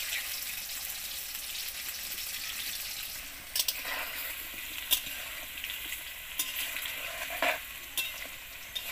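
Cubed potatoes frying in oil in a deep metal pan, sizzling steadily. A metal spatula stirs them, scraping and clinking against the pan several times in the second half.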